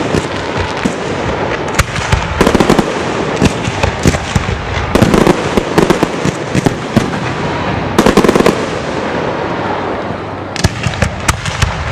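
Aerial fireworks exploding in rapid clusters of sharp bangs and crackling, with continuous rumble between the volleys.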